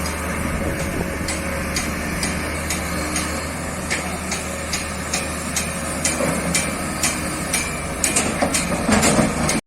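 Hitachi ZX excavator's diesel engine running steadily under load, with repeated clanks and knocks from the working machine that come thicker and louder in the last couple of seconds before the sound cuts off suddenly.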